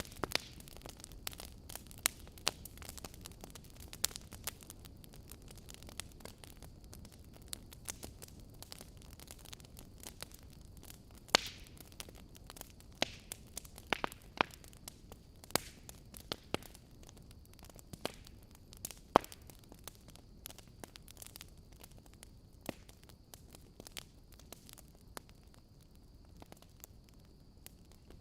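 Wood fire burning in a fireplace, crackling with irregular sharp pops and snaps over a soft low rumble.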